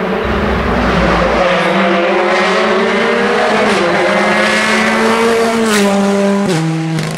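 Rally car engine pulling hard through the gears, its pitch climbing in steps, then falling sharply twice near the end as it downshifts, with a couple of sharp exhaust pops.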